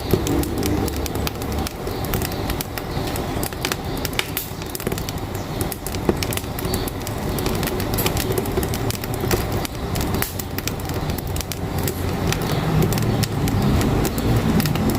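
Firewood crackling and popping in a wood-burning stove, with many sharp snaps throughout, over the steady low rumble of a truck engine.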